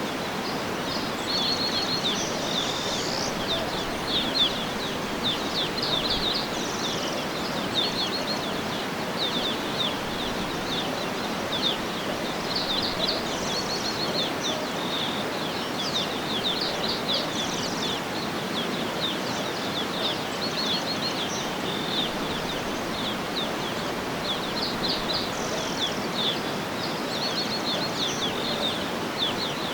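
Small birds chirping and calling in quick, repeated high notes over a steady background rush of outdoor noise.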